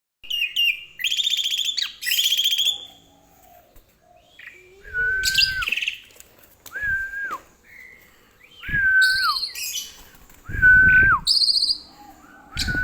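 Javan pied starling (jalak suren) calling. It opens with harsh, rapid rasping chatter, then gives four clear whistled notes, each held level and falling at the end, with short harsh chirps between them.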